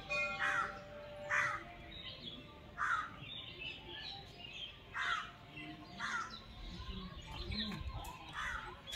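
A bird calling over and over, short calls every one to two seconds, with fainter small-bird chirps in between.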